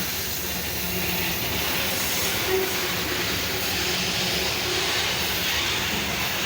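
Loaded grain freight wagons rolling past on a downhill grade: a steady noise of steel wheels on the rails, with a hissing edge.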